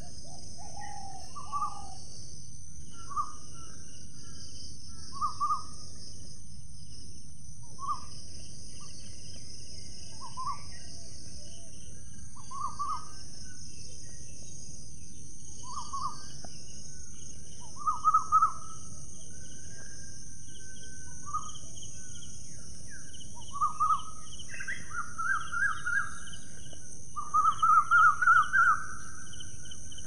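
A bird giving short calls every couple of seconds, then runs of quick notes, the loudest a run of five or six near the end. Under it runs a steady high drone and a low background hiss.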